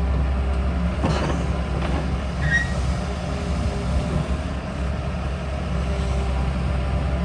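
2013 Komatsu PC210LC hydraulic excavator's diesel engine running steadily, with a brief scrape about a second in and a short high squeal soon after.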